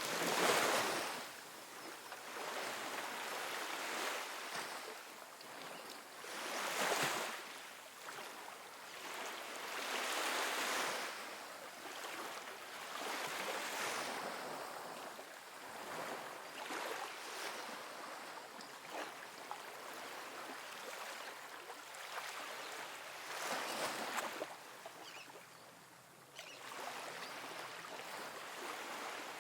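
Small ocean waves breaking and washing up a sandy beach in an irregular rhythm, one swell of surf every few seconds, the loudest near the start and about seven seconds in.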